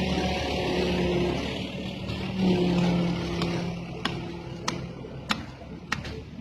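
Heavy diesel engine of a crane running, its hum swelling briefly about two and a half seconds in and then easing off. From about halfway on, a run of sharp knocks comes at roughly even spacing, a little over one a second to nearly two a second.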